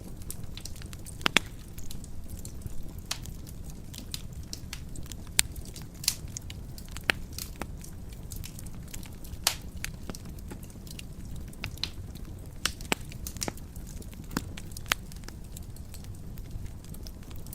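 Wood fire burning in a fireplace, crackling steadily over a low rumble, with irregular sharp pops and snaps.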